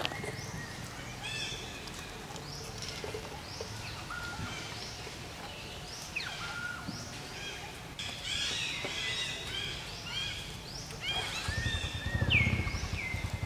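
Wild birds chirping and whistling over and over, short sharp notes, some sweeping downward in pitch. About 11 seconds in, a low, fast-pulsing rumble comes in under them.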